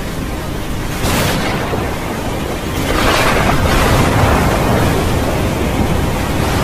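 Heavy rain pouring onto a flooded street, a loud steady hiss. It swells about a second in, then louder from about three seconds in, as vehicles drive through the floodwater and splash it.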